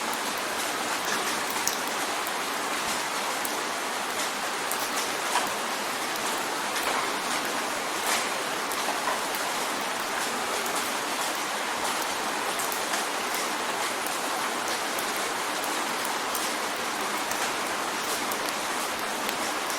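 Steady rain drumming on a window pane: an even hiss of rainfall with many small, sharp drop taps scattered through it.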